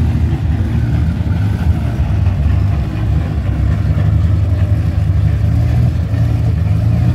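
Square-body Volkswagen Gol drag car's engine idling, loud and steady, with no revving.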